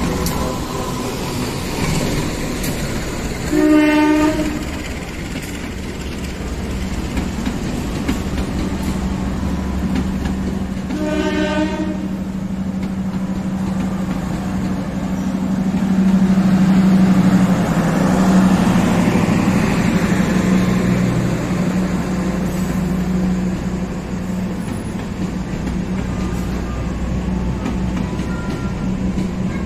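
Diesel locomotive hauling a passenger train past on the rails: a steady engine drone with wheels rolling and clacking over the track. Two horn blasts sound, one about four seconds in, which is the loudest moment, and a shorter one about eleven seconds in. The rolling noise swells a little past the middle.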